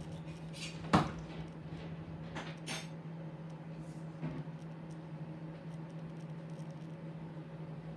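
Microwave oven running with a steady low hum, with a sharp knock about a second in and a few faint clicks after it.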